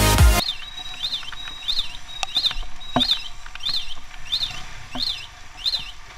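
A bird calling a short high note that rises and falls, repeated steadily about twice a second.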